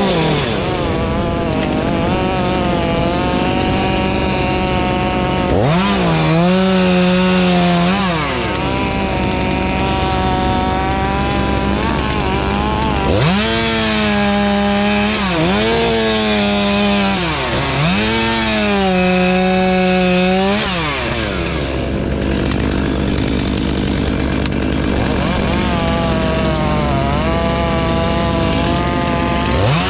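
Two-stroke chainsaw revving up several times, its pitch jumping up, holding and sagging, then dropping back to a lower running speed between revs.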